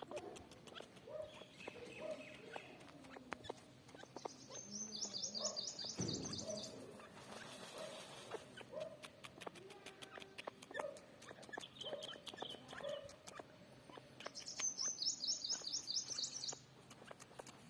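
Birds calling, with a rapid, high chattering trill twice, about ten seconds apart, over softer lower calls and scattered clicks.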